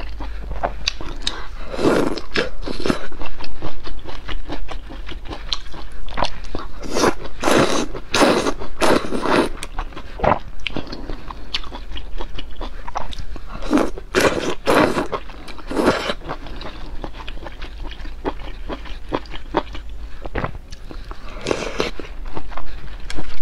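Close-miked eating of spicy malatang stew, mostly soft potato slices and glass noodles in chilli-oil broth. Mouthfuls are bitten and chewed in clusters of short wet noises every few seconds, with quieter gaps between.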